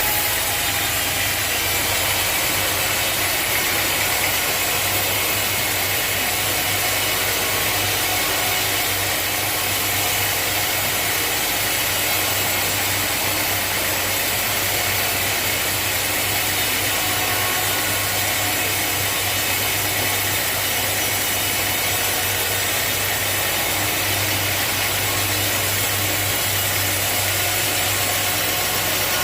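Sawmill machinery running steadily, a constant mechanical hum with a bright, hissing noise over it and no change in level.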